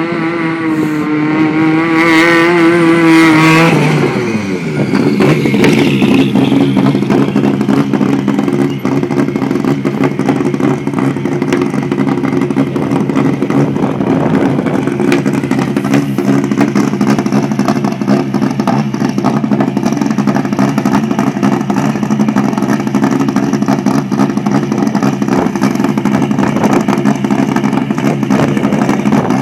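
A rally car's engine held at high revs, its pitch wavering slightly, then dropping sharply about four seconds in. After that a rally car's engine idles steadily.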